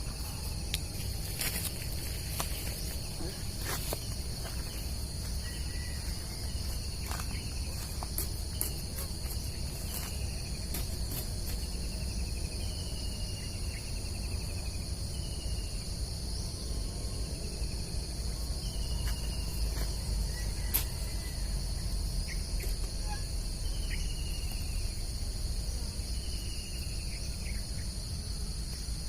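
A steady chorus of insects, a continuous high-pitched drone, with a bird repeating a short falling note every second or two. Faint scattered clicks and a low rumble lie underneath.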